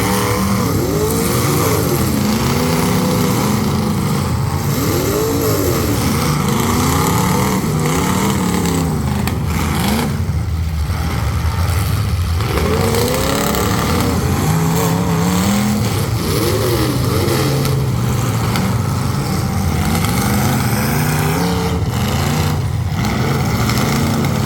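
Several full-size demolition derby cars' engines running hard, revving up and falling back over and over, overlapping in a loud, continuous din.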